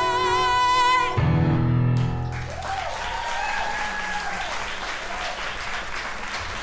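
A female singer holds the song's final high note with vibrato, cut off about a second in as the accompaniment closes on a low chord. The audience then breaks into applause.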